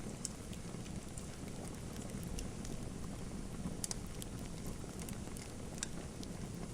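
Wood fire in a fireplace crackling: scattered sharp pops and snaps at irregular intervals over a steady low rumble of the burning fire.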